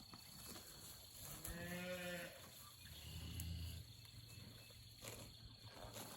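Faint cattle calls: a calf bawls once, about a second and a half in, its pitch rising then falling, and a lower, shorter call follows about three seconds in.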